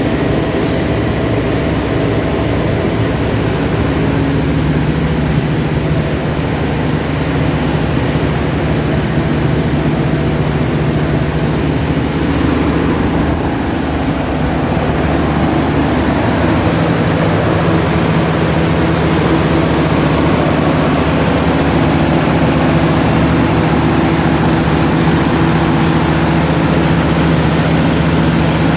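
Cummins 400 kVA open-type diesel generator set running steadily at constant speed during a test run, a loud, even engine drone with a low hum and no let-up.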